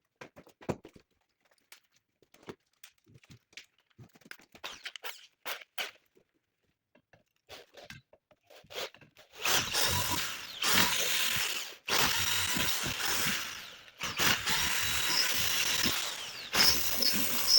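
Light scattered clicks and knocks of handling. About nine seconds in, a handheld power tool starts and runs in three long stretches with brief stops between, with a high squeal in the last run.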